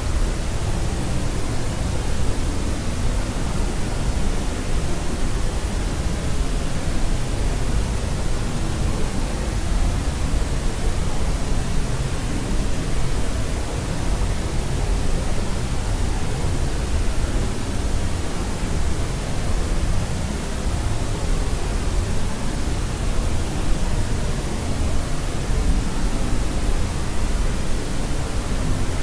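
Steady white noise for sleep: an even, unchanging hiss, fuller in the low end than in the highs, much like pink noise.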